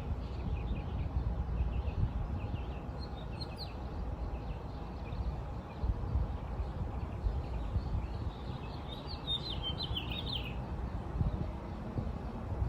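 Small birds chirping faintly over a steady low rumble, with a quick run of brighter chirps a few seconds before the end.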